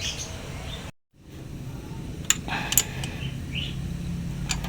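A few sharp metallic clicks and clinks of tools and parts as work goes on at the motorcycle engine, over a steady low background hum, with birds chirping.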